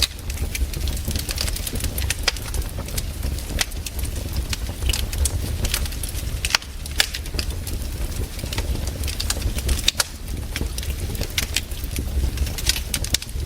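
Wood campfire burning, with irregular crackles and sharp pops over a steady low rumble.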